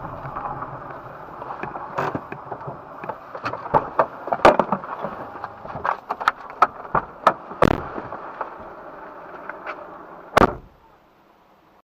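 A long irregular series of sharp cracks and bangs over a steady background rumble, the loudest bang coming about ten and a half seconds in, after which the sound cuts off.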